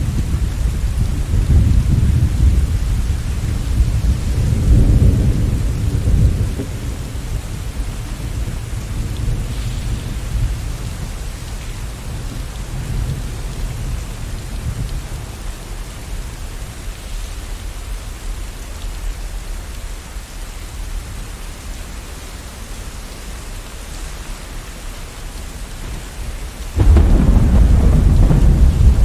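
Thunderstorm: steady rain with thunder rumbling at the start that dies away after about six seconds. A sudden loud peal of thunder breaks in near the end.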